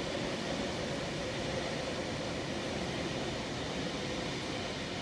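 Double-deck electric passenger train running past, a steady rumble with a faint constant hum.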